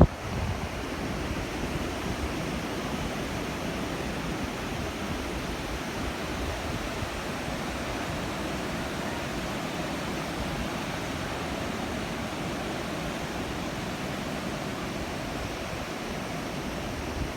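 Ocean surf washing onto the beach, heard as a steady, even rush with no single wave standing out.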